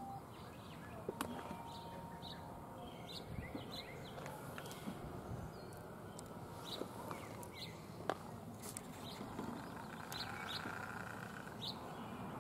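Wild songbirds chirping in short, scattered calls over a steady background of outdoor ambient noise.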